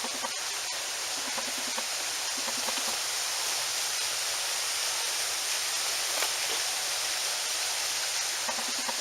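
Small stream flowing: a steady rushing of water.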